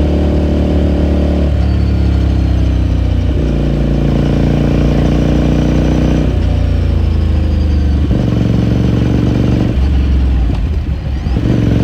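2018 Ducati Scrambler Sixty2's air-cooled L-twin engine and exhaust running under way, heard onboard, the engine note changing pitch in several steps as throttle and gears change, with a brief dip in loudness near the end.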